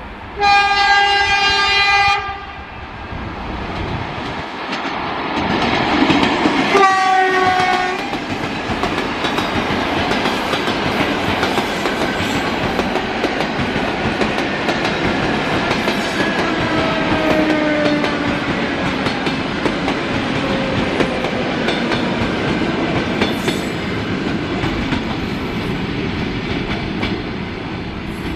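Electric train sounding its horn in a blast of almost two seconds, then a second, shorter blast, then going past with wheels clattering over the rail joints and a falling whine as it passes.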